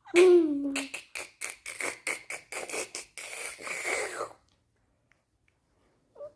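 A baby's funny vocal sound: a short falling voiced note, then about three seconds of quick, raspy, breathy pulses, roughly four or five a second, which stop about four seconds in.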